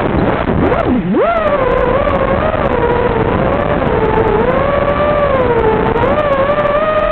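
FPV racing quadcopter's electric motors whining, the pitch rising and falling with the throttle; about a second in it drops sharply and swoops back up, as in a quick throttle chop and punch.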